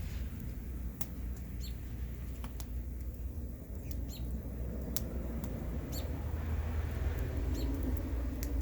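Bonfire crackling and popping in irregular sharp snaps, some with brief high squeaks, over a steady low rumble of wind on the microphone.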